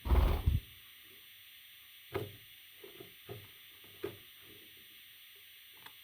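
A loud bump right at the start, then a handful of soft, separate knocks and taps over a steady background hiss.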